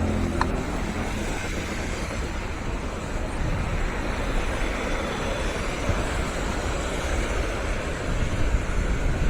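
Steady seafront road ambience: passing traffic mixed with sea waves, and wind buffeting the microphone with a deep rumble.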